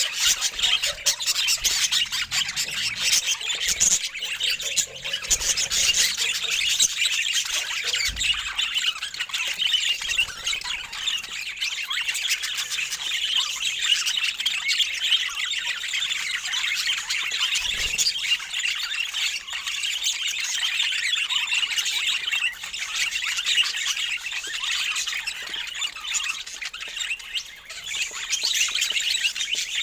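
Budgerigars chattering and chirping in a continuous busy warble, with a couple of soft low thumps.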